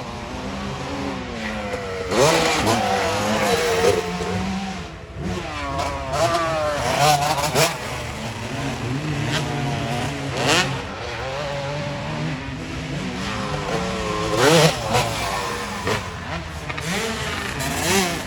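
Several motocross bikes' engines revving hard and shifting, their pitch climbing and dropping again and again. Louder passes come about 2, 7, 10 and 14 seconds in.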